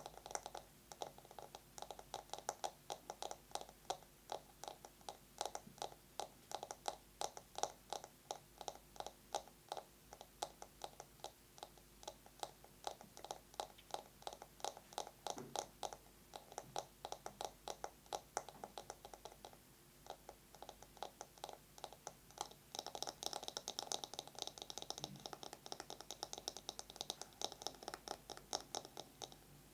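Fingernails tapping fast on a bamboo massage brush in rapid, irregular clicks. From about three-quarters of the way through, the strokes run together into a denser scratching.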